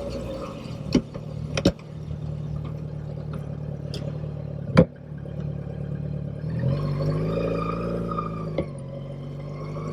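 Motorcycle engine running steadily, with sharp knocks about a second in, just after, and near the halfway point. Past the middle the engine note changes and rises as the bike accelerates.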